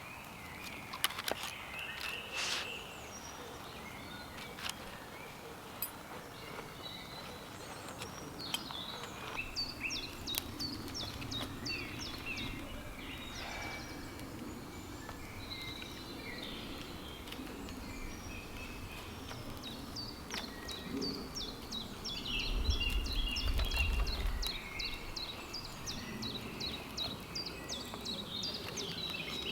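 Woodland birds singing in runs of short, high chirps that fall in pitch. There are a few sharp knocks near the start and a brief low rumble about two-thirds of the way in.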